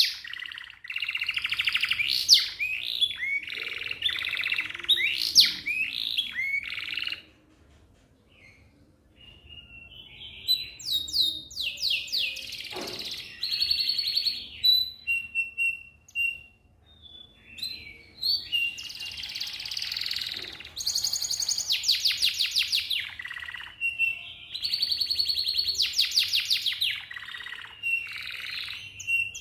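Domestic canary singing in long phrases of fast, rolling trills and chirps. There is a pause of about three seconds roughly a quarter of the way in, and a shorter break just past the middle.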